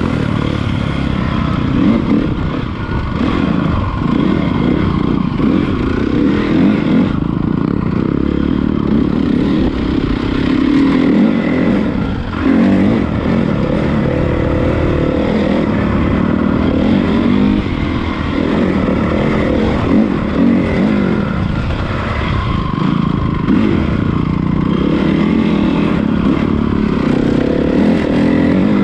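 Honda CRF450 motocross bike's single-cylinder four-stroke engine running while ridden, its pitch rising and falling again and again as the throttle is opened and closed.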